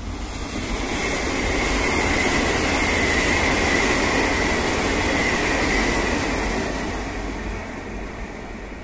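A Taiwan Railways EMU800 electric commuter train passing on a viaduct. The rumble of its wheels on the rails builds as it comes by and is loudest midway, with a steady high whine over it, then fades as the train runs away.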